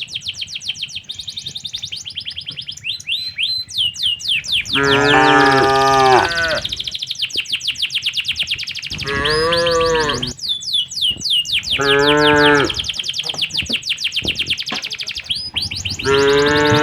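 Cattle mooing: four long, drawn-out moos at intervals, over a steady, rapid high-pitched chirping.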